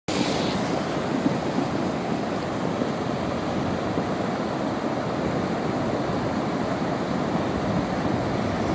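Steady rushing noise of rainwater running through a wadi.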